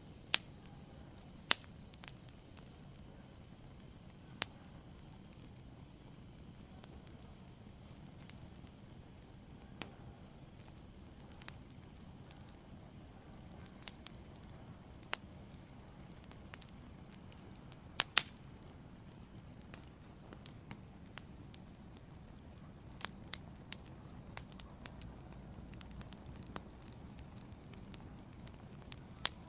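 Wood fire burning in a fireplace: a soft steady hiss with sharp crackles and pops at irregular intervals, the loudest about a second and a half in and around eighteen seconds, and a quick run of pops in the second half.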